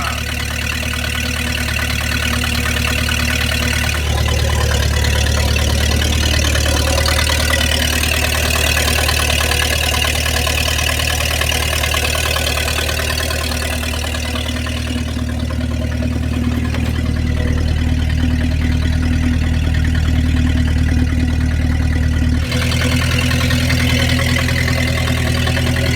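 1953 Packard straight-eight engine running at a steady idle soon after a cold start, its note shifting slightly about four seconds in and again near the end.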